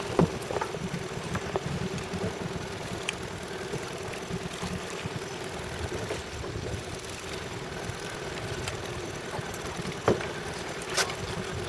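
Small boat's engine idling with a steady hum over a low rumble, with a few sharp knocks, the loudest about ten seconds in.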